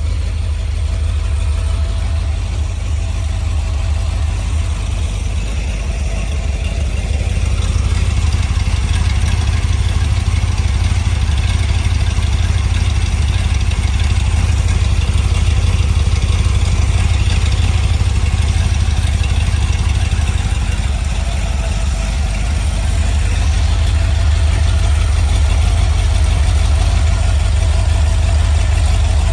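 Carbureted 4.0 Rover V8 idling steadily on an engine stand, getting slightly louder about eight seconds in and then holding.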